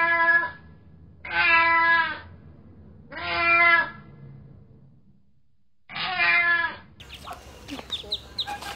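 A domestic cat meowing four times, each meow under a second long, with pauses between them. Near the end this gives way to a flock of ducklings peeping in many short, high, rising chirps.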